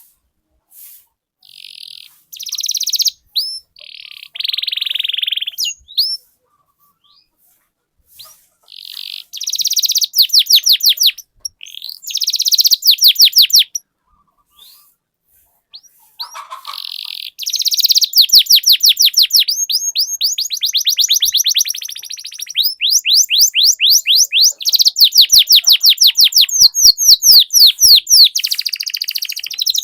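Domestic canary singing in quick phrases of buzzy notes and fast rolling trills of rapidly repeated notes, with brief pauses. It settles into an almost unbroken long roll over the second half.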